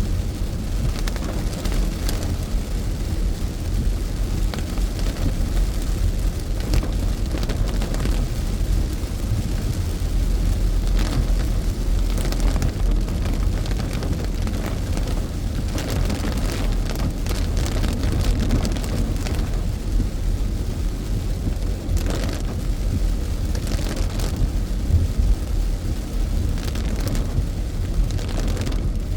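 Car cabin in heavy rain: a steady low rumble of the car on a wet road, with rain hitting the car's roof and windshield in scattered brief louder spells.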